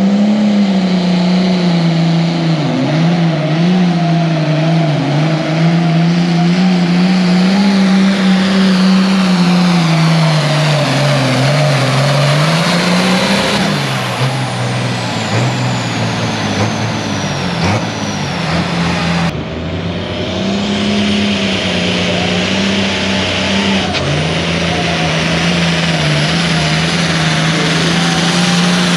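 Hot farm class diesel pulling tractor running hard under load, its engine note rising and sagging as it pulls. A high turbocharger whistle falls in pitch about halfway through.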